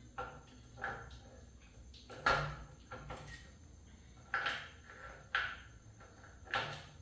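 Hand work on an engine: about seven separate clicks and knocks of metal parts and tools, each a second or so apart, some with a short ring.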